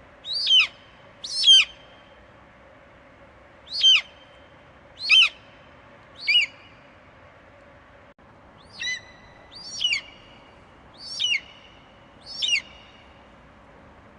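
Eagle screeching: nine short, sharp calls, each falling steeply in pitch, at irregular gaps of about one to two and a half seconds, over a faint steady hum.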